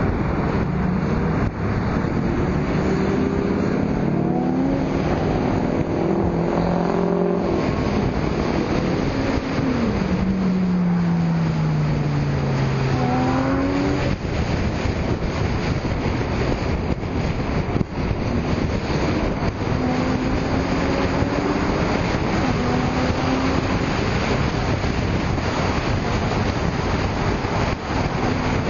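Sports car engines revving and driving past, one falling in pitch as it goes by about ten seconds in, with fainter rises later, under steady wind noise on the microphone.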